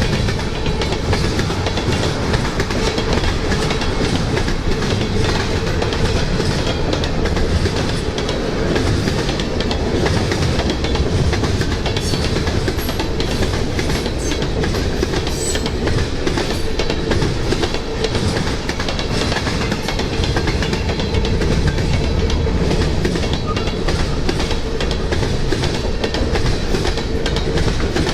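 Freight train cars rolling past at close range: a steady loud rumble of steel wheels on rail, with rapid clicking and clattering from the wheels and the cars.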